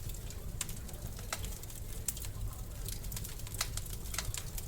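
Wood fire crackling in a fireplace: irregular sharp pops over a low steady rumble of the burning logs.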